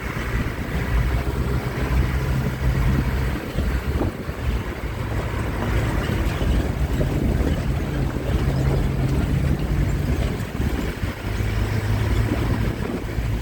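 Bus engine running steadily with a low drone, mixed with road rumble and wind buffeting the microphone as the bus moves.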